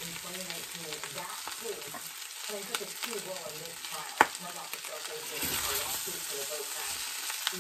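Chicken, potato and corn succotash sizzling in a cast-iron skillet while a metal spatula stirs it, with a few sharp pops from the frying corn, the loudest about four seconds in.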